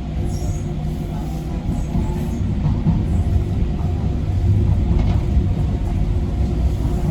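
Docklands Light Railway train running along the line, heard from inside the front of the car: a steady low rumble of wheels and motors with a faint hum, growing a little louder about halfway through.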